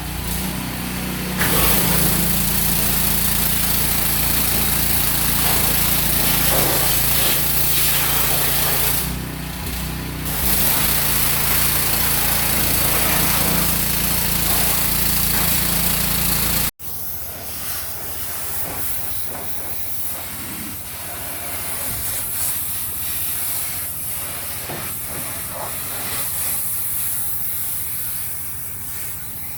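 High-pressure cleaner spraying the greasy extractor hood: a steady hiss over the hum of its motor. After a cut about 17 s in, the spraying continues more quietly.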